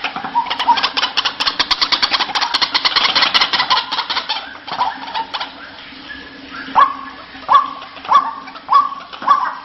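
White-breasted waterhen calling: a fast rattling chatter for the first four and a half seconds or so, then a run of loud, evenly spaced calls from about seven seconds in, each jumping up sharply and then falling, a little under two a second.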